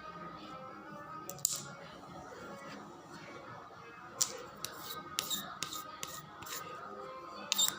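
Scissors snipping thread, a string of short sharp cuts, most of them in the second half, over soft background music.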